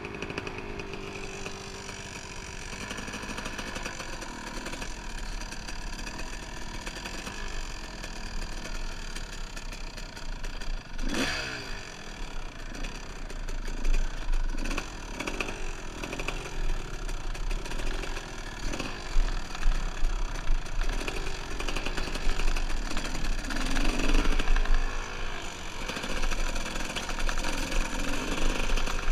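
Dirt bike engine running under way on a trail, its pitch rising and falling as the throttle is worked, with a sharp rev about eleven seconds in and a string of quicker revs in the second half. A steady low rumble runs underneath.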